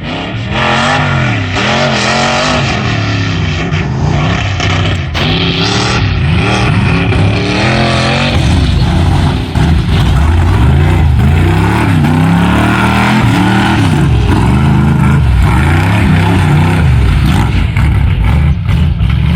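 Loud truck engine revving hard, its pitch climbing and dropping again and again.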